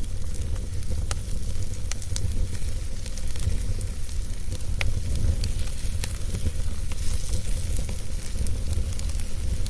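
Wood fire burning in a fireplace: a steady low rumble and hiss with scattered sharp crackles and pops, one stronger pop about five seconds in.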